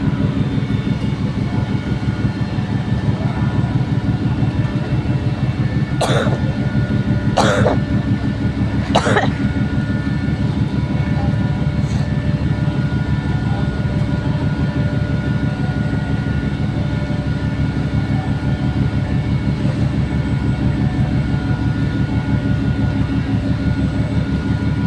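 Express ferry's engines running with a steady heavy low rumble and a hum of steady tones during docking. Three short harsh noises stand out over it between about six and nine seconds in.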